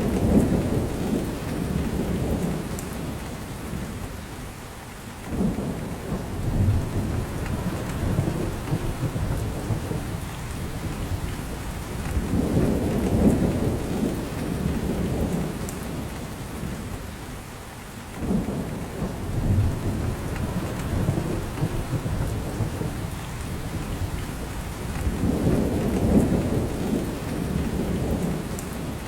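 Steady rain falling, with a low rumble that swells and fades about every six to seven seconds.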